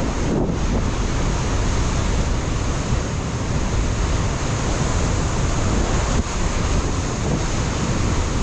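Ocean surf breaking and washing on a rocky shore, a steady heavy rush of water, with wind buffeting the microphone in a low rumble.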